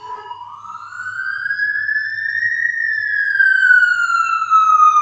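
Police car siren wailing: one slow rise in pitch over about three seconds, then a slow fall, growing louder.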